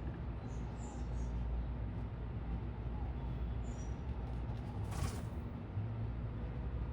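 Steady low rumble of city traffic, with a few faint, short, high chirps from small birds and one sharp click about five seconds in.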